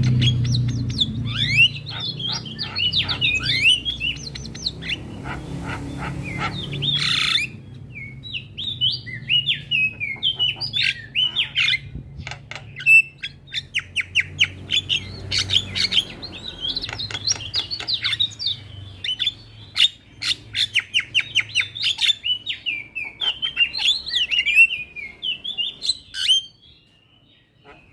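Javan myna singing: a fast, varied run of chattering whistles, sharp clicks and squawks, broken by a short pause near the end.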